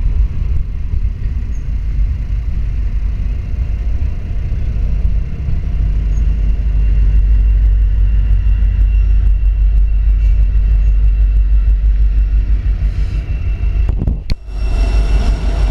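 Freight train passing close by: a steady heavy rumble of boxcar wheels on the rails. It grows louder as a Union Pacific diesel locomotive in the middle of the train rolls past, with a short break near the end.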